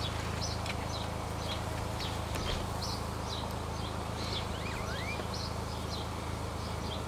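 A bird chirping repeatedly, short high chirps about two to three a second, with one rising call about halfway through, over a steady low hum.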